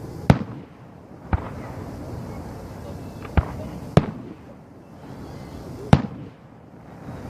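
Aerial fireworks shells bursting in a professional 1.3 display: five sharp bangs at uneven intervals, two of them close together a little past the middle.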